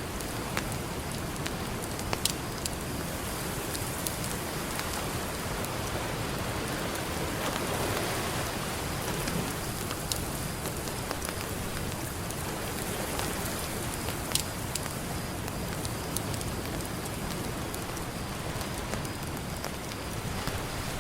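Campfire crackling, with a few sharp pops standing out, over a steady wash of ocean surf that swells about eight seconds in.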